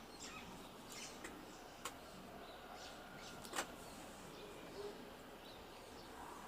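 Faint outdoor ambience: birds chirping here and there over a low steady hiss, with two sharp clicks, one a little before two seconds in and a louder one about halfway through.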